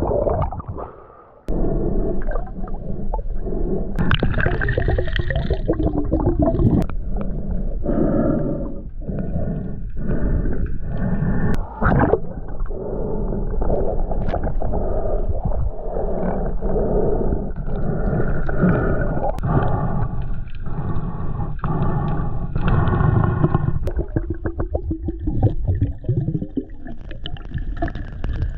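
Muffled water sloshing and gurgling around a camera in the sea, heard through its waterproof housing, with uneven surges and a few knocks.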